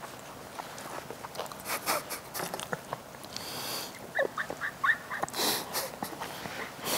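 Close-miked crunching of crispy snack chips being chewed, then a run of short, squeaky, stifled laughs about four seconds in.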